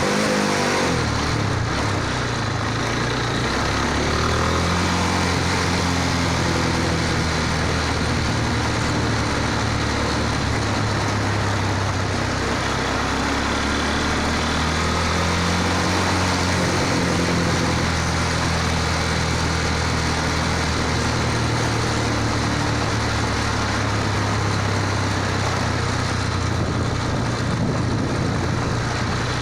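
Motorcycle engine running under way, its pitch rising and falling several times with the throttle and gear changes, over a steady rush of wind and road noise.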